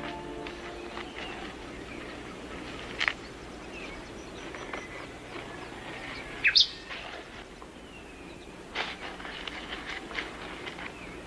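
Rainforest ambience with birds calling: a steady background hiss broken by a few sharp, sweeping calls about three seconds in, near the middle (the loudest) and about nine seconds in, with softer chirps between.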